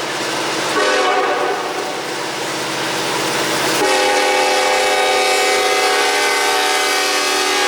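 Diesel locomotive air horn on a CN freight train sounding a sustained multi-note chord. It swells louder and fuller about four seconds in.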